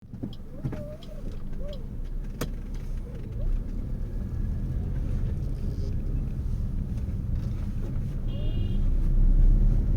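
Low, steady vehicle rumble that grows louder toward the end, with a sharp click about two and a half seconds in and a brief high tone about eight seconds in.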